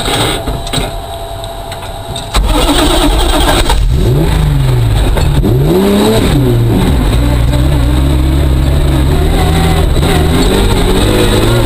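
Ford Focus rally car's engine heard from inside the cabin: subdued for the first couple of seconds, then suddenly loud about two seconds in, revving up and down before holding a steady pitch.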